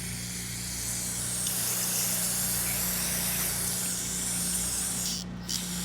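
Aerosol carburetor cleaner spraying onto a lawnmower carburetor in one long, continuous hiss, cutting off about five seconds in, as it washes out gum and built-up deposits.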